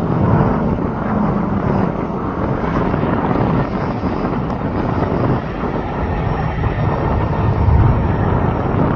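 Aircraft engines running loud and steady as a plane passes close by, a dense rumbling noise with no clear rise or fall.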